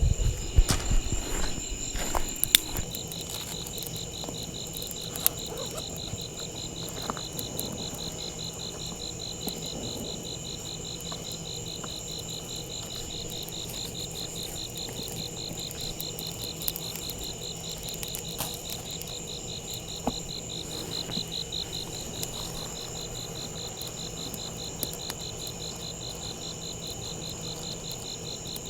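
Chorus of insects trilling: one fast, steadily pulsing trill with other insects holding steady high notes. Scattered sharp clicks and knocks are loudest in the first few seconds.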